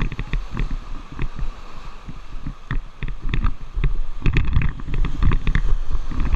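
Wind buffeting the microphone in uneven low gusts, mixed with splashing and trickling water around a river raft.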